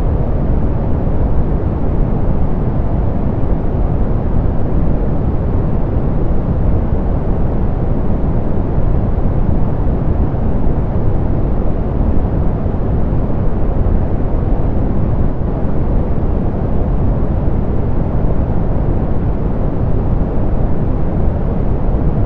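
Steady soft pink noise: an even, unchanging hiss, strongest in the low end and rolled off in the highs.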